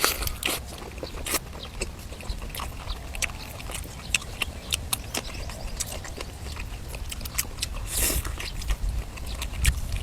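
Close-miked eating sounds: a person biting and chewing braised duck, with many short, crisp clicks and a louder crunchy burst about eight seconds in.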